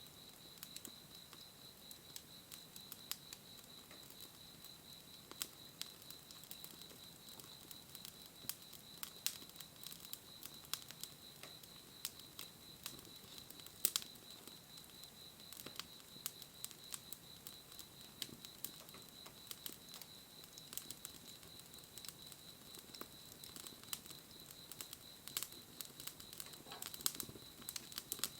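Wood fire crackling, with irregular sharp pops scattered throughout. A steady high-pitched tone sounds behind it.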